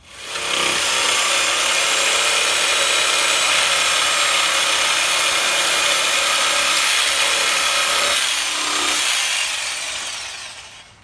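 Electric woodworking power tool starting up, running steadily with a whine for about eight seconds, then switched off and winding down with falling pitch near the end.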